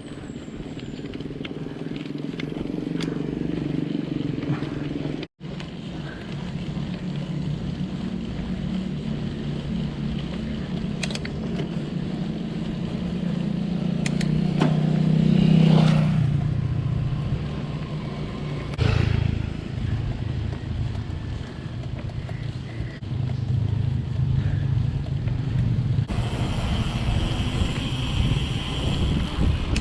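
A motor vehicle engine grows louder, peaks about sixteen seconds in with a sliding pitch as it passes, then fades, over a steady low rumble.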